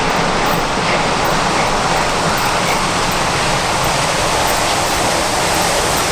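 A train running, heard as a loud, steady rushing noise without distinct beats.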